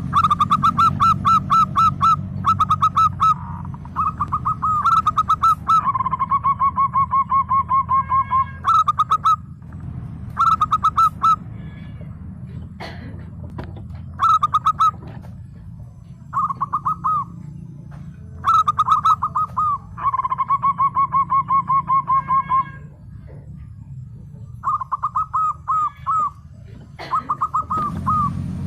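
Zebra dove (perkutut) cooing: repeated bursts of quick, clipped notes, and two longer rolling trills, one about six seconds in and another about twenty seconds in. A steady low hum runs underneath.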